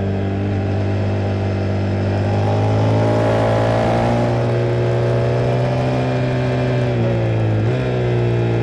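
Single-cylinder engine of a KTM 390 Duke motorcycle running under load at speed, its note rising gently at first and then holding steady, with a brief dip near the end as the throttle or gear changes.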